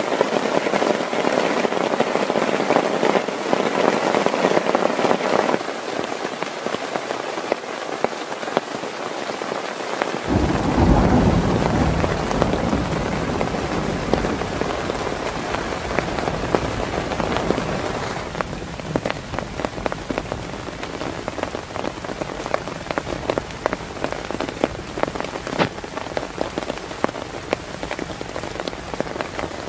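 Heavy rain falling steadily. About ten seconds in, a deep low rumble sets in and is loudest for a few seconds. In the later part, many sharp individual drop hits stand out in the downpour.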